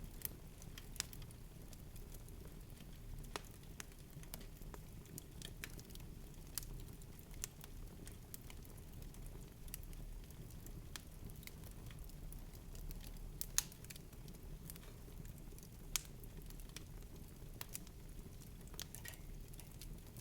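Faint irregular clicks and ticks, a few louder snaps among them, over a low steady rumble.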